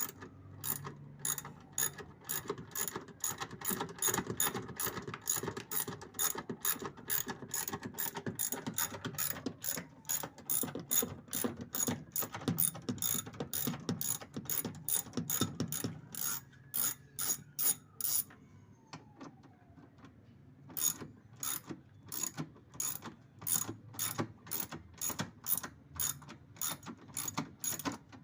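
Socket ratchet wrench with a 10 mm socket clicking in quick, even strokes as it backs out bolts on a washing machine's transmission. The clicking stops for a couple of seconds about two-thirds of the way through, then resumes.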